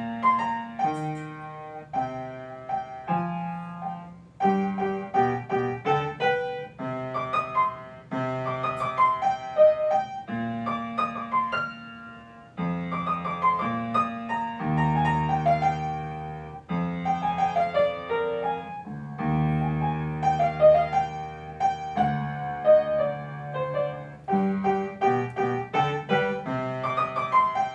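Solo piano music, a light melody over changing chords.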